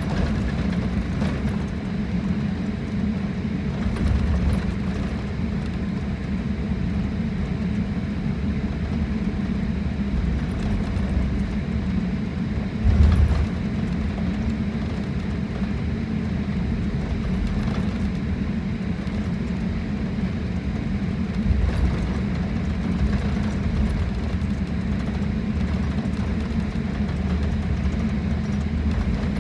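Airliner cabin noise on the ground: a steady rumble and hum of the jet engines and rolling aircraft, with two short thumps, one about halfway through and one at the end.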